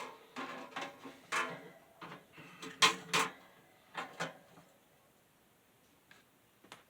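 Knocks, clicks and clatters of a metal box fan being handled and repositioned, loudest around three seconds in, then dying away to a few faint clicks.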